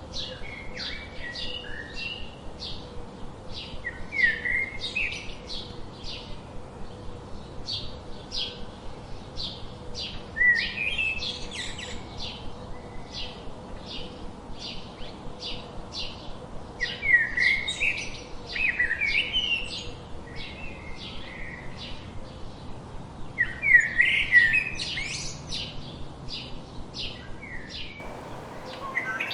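Songbirds calling: one bird gives short, high chirps about twice a second, while others break in with louder twittering phrases several times.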